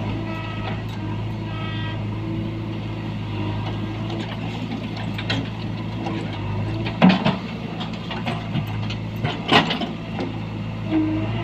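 Heavy diesel engine running steadily, with two loud clattering knocks a couple of seconds apart past the middle.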